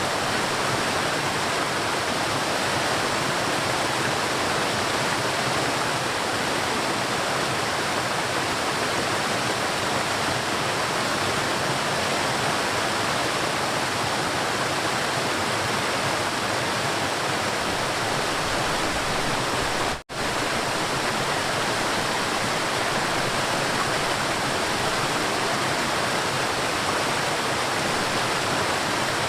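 River water rushing and flowing steadily. The sound cuts out for a split second about two-thirds of the way through, then returns unchanged.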